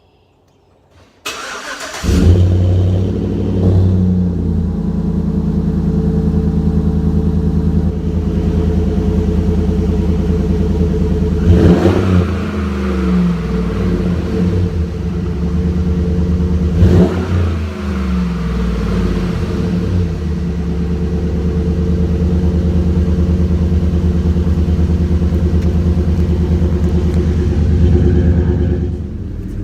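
A 2011 Chevy Silverado's 5.3-litre V8, breathing through a Flowmaster American Thunder exhaust kit, starts up about a second in and idles with a deep, steady note. It is revved briefly twice, a few seconds apart, before settling back to idle.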